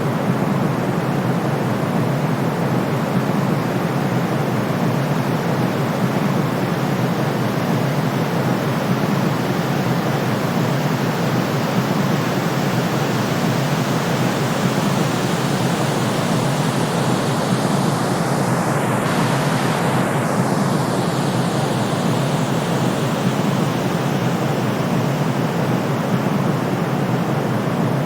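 Steady, unbroken white noise for soothing a colicky baby, deep and rushing, weighted toward the low end with a thinner treble. A faint sweeping shimmer passes through the high end about two-thirds of the way through.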